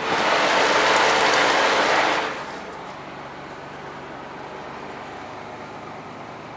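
A loud hiss lasting about two seconds that cuts off suddenly, then the steady running of the truck's engine heard from inside the cab as it climbs a snowy grade.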